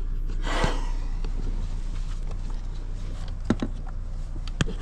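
Handling noise: a rustle about half a second in and a few sharp clicks near the end, over a steady low hum.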